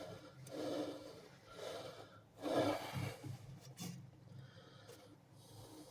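A man breathing heavily from exertion: a few loud breaths about a second apart, growing quieter after about three seconds.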